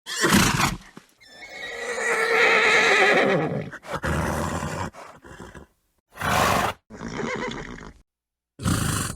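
A horse neighing: a short burst, then one long whinny of about two and a half seconds that falls away at the end, followed by several shorter bursts separated by abrupt silent gaps.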